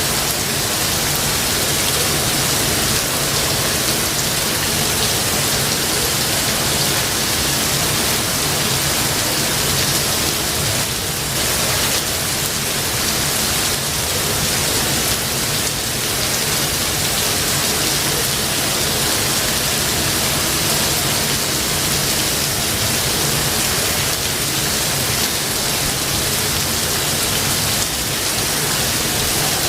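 Steady rain falling in a forest, an even hiss that holds unchanged throughout.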